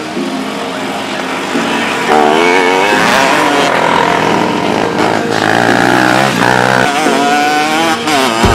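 Small off-road motorcycle engines revving on a dirt track, pitch rising and falling as the riders work the throttle, louder from about two seconds in.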